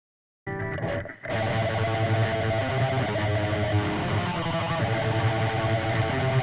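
Seven-string electric guitar with a Seymour Duncan Nazgul pickup, played through a Stomp Machines Prometheus high-gain distortion pedal and a cabinet impulse response. A heavily distorted, low metal riff starts about half a second in out of silence, breaks off briefly around a second in, then runs on dense and steady.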